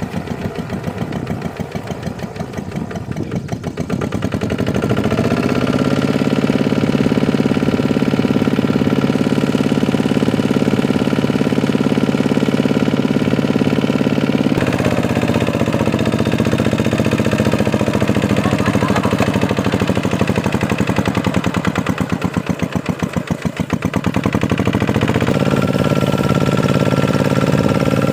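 Tractor engine running continuously: it revs up about four seconds in and holds a steady speed, then its pitch drops and wavers with dips in loudness a little after halfway before it settles back to a steady run near the end.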